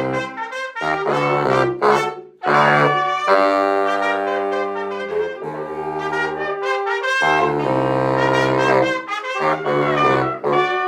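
Small wind ensemble of trumpet, baritone sax, soprano sax and alto sax playing a salsa tune: held chords and phrases broken by short breaths, with the baritone sax on the low notes.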